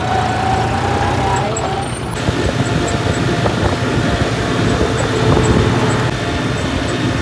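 John Deere 5210 tractor's engine running steadily under way, a continuous low rumble with road and vehicle noise.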